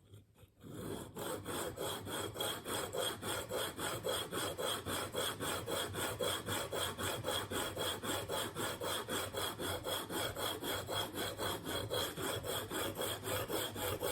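Steel single-bevel broadhead edge being stroked back and forth across a coarse 220-grit diamond plate wet with Windex, a steady rhythmic rasping at about three strokes a second that starts about a second in. The edge is being ground to raise a burr along it.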